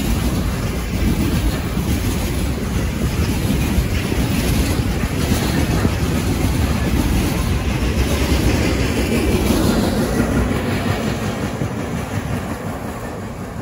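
A train running past on the rails, its wheels rolling with a steady, loud noise that eases off over the last few seconds as it moves away.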